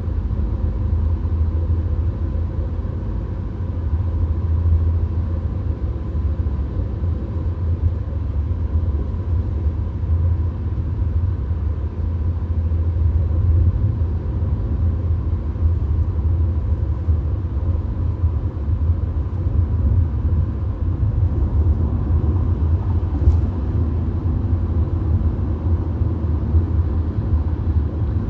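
Steady low rumble of road and engine noise inside a VW Golf cruising on a motorway, with a faint tick late on.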